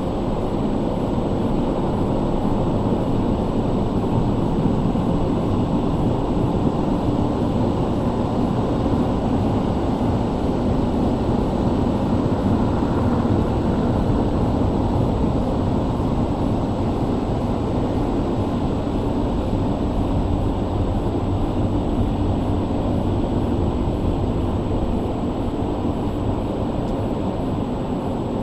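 Automatic car wash machinery running: a steady low roar, heard from inside the car.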